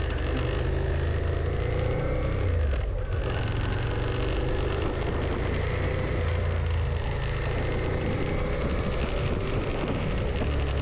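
Suzuki SV650's V-twin engine running while the bike is ridden at town speed. Its pitch rises and falls with the throttle and dips briefly about three seconds in.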